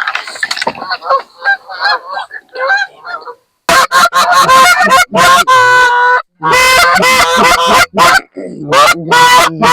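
Goose calls blown by hunters to bring a flock in: quick, fainter clucking for about three seconds, then loud, drawn-out honks and moans in rapid series, broken by a short pause near the end.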